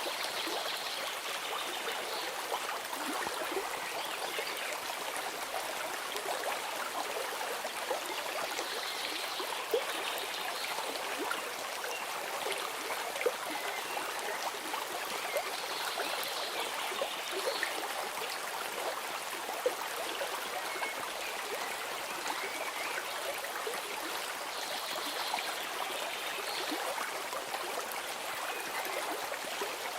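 Flowing stream: a steady, even rush and trickle of water over stones.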